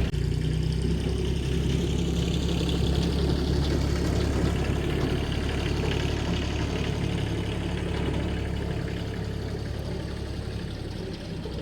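A vehicle engine running steadily with a low hum, growing gradually quieter over the last few seconds.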